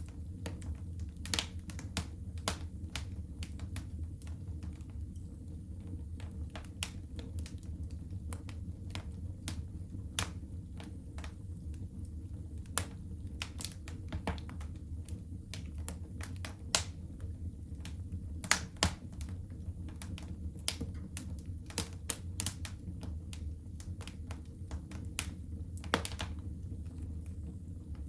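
Fireplace fire crackling, with irregular sharp pops, a few of them louder, over a steady low hum.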